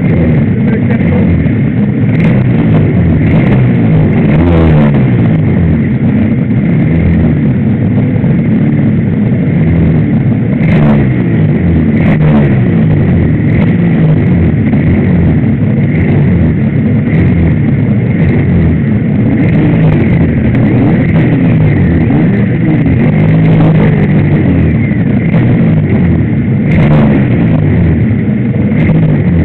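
Suzuki RGV250's two-stroke V-twin running at a standstill, its engine speed rising and falling again and again, with other race motorcycles running close by.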